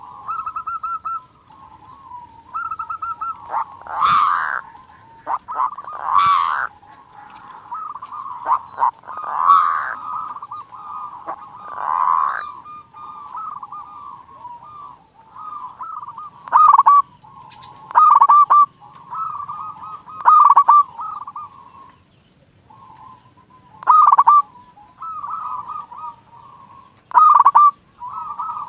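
Zebra doves (perkutut) cooing: a near-continuous run of rolling, warbling coos, with loud, sharp accented notes every couple of seconds in the later part.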